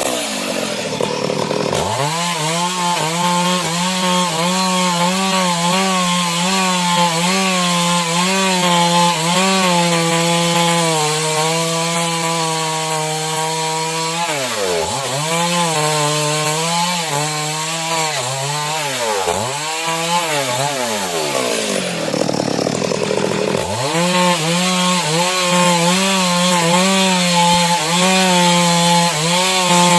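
Stihl chainsaw ripping a mahogany log lengthwise, running at high, steady speed under load. Its pitch swings down and back up several times in the middle as the throttle is eased off and reopened, then it settles back at full speed.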